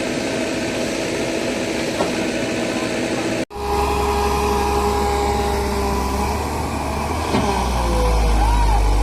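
Diesel engines of heavy construction machinery running steadily. There is a sharp break about three and a half seconds in, after which a deeper engine rumble takes over and grows louder near the end.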